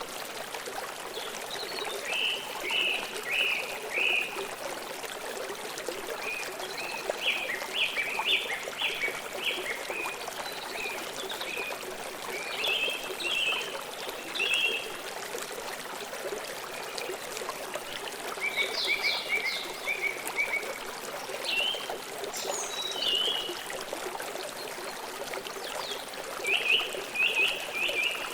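Steady rush of a flowing river or stream, with a bird singing short chirping phrases every few seconds over it.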